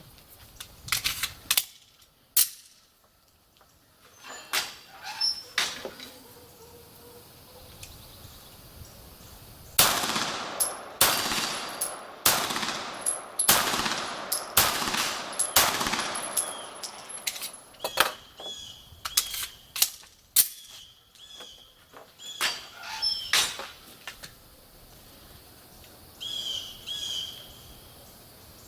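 9 mm Beretta 92G Elite Compact pistol fired rapidly: a few shots early on, then a quick string of about nine shots midway through, then more scattered shots. Some shots are followed by a short metallic ring of a bullet striking a steel plate target.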